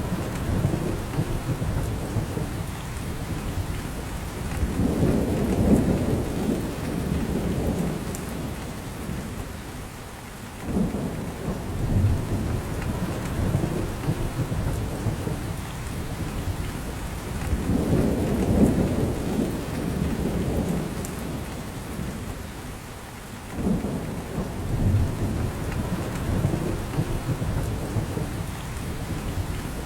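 Steady rain falling in a spruce forest, with drops falling from the branches, under a low rumble that swells and fades every six or seven seconds.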